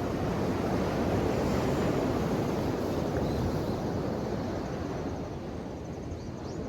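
Ocean waves surging and washing in, a steady dense rush that eases off in the last couple of seconds.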